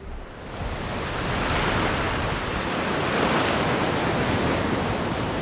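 Atlantic Ocean surf: a wave breaking and washing up the beach, a rushing hiss that builds from about half a second in and eases off near the end.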